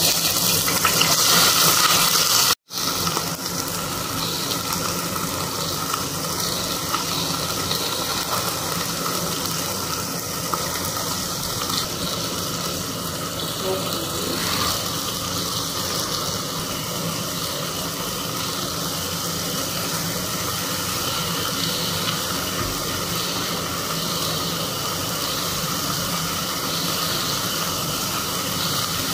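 Chicken pieces sizzling as they fry in a pot on a gas stove, a steady hiss that is louder for the first couple of seconds and drops out briefly at an edit.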